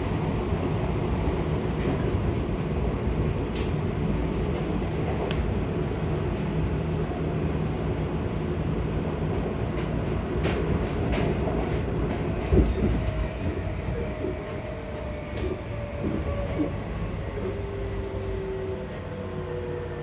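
Seibu 6000 series electric train running on the rails: steady rumble of wheels and motors with a sharp knock a little past halfway. In the second half the running noise eases and a motor whine slides slowly down in pitch as the train slows.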